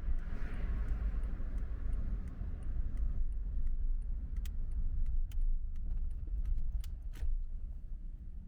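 Car's low, steady road rumble, with a few sharp clicks and a jingle in the second half.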